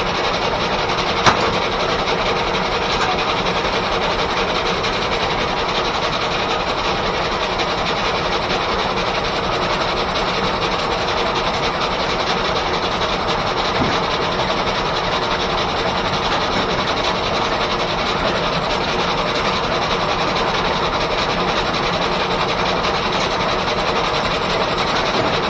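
1880s R.R. Howell left-hand sawmill running under steam-engine power: a steady, unbroken mechanical noise with a constant hum. There is one sharp click about a second in.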